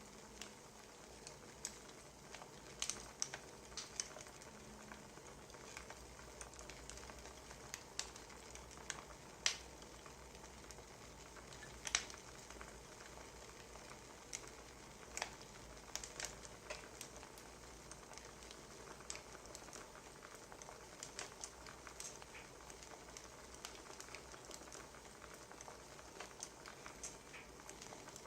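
Wood fire crackling faintly: a soft steady hiss with irregular sharp pops and snaps.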